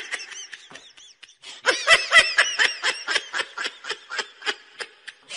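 High-pitched laughter: a run of quick pulses, about five a second, faint at first and louder from about a second and a half in.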